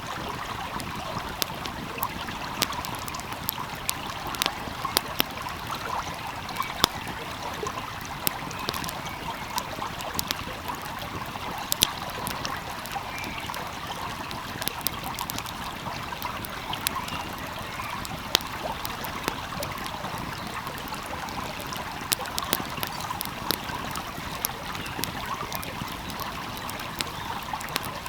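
Small stream flowing steadily, with a wood fire crackling over it in frequent sharp pops.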